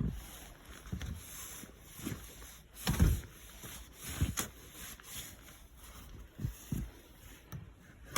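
Footsteps of a person walking, irregular low thumps about once a second, with rustling and handling noise; one heavier thump about three seconds in.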